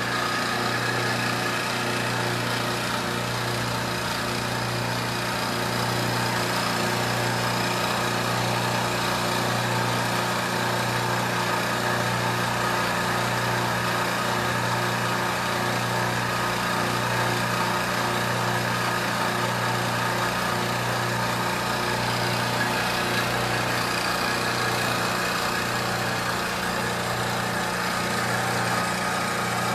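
Milling machine running steadily while milling a backhoe part, a low motor hum that pulses slightly about once a second, with steady higher tones over it.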